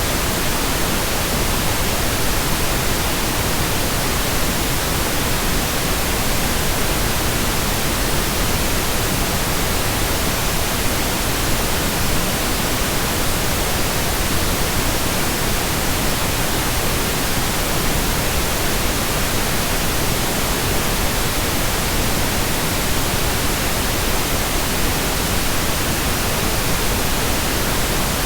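Steady pink noise: an even, unchanging hiss spread across the whole range, with no breaks or changes.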